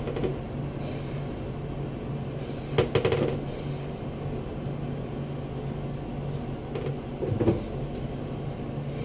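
Clattering knocks of kitchen containers being handled, in two short clusters about three seconds in and again near the end, over a steady low hum.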